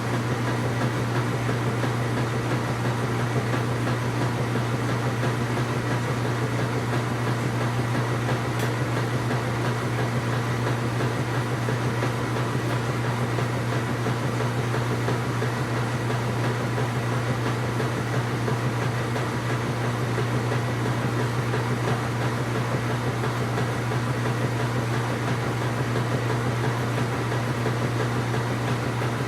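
Washing machine running: a steady low hum with an even mechanical whir over it, unchanging throughout.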